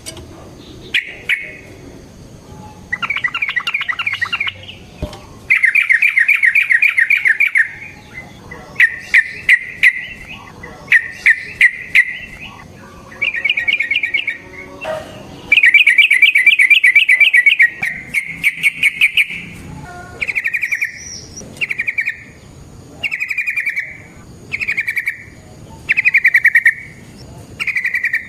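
Yellow-vented bulbul (trucukan) singing in bursts of rapid rolling, chattering notes. The phrases run one to two seconds long at first, then turn into short phrases repeated about every second and a half in the second half.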